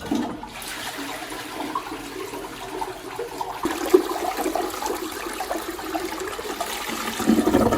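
Toilet flushing: water rushing through the bowl, starting suddenly.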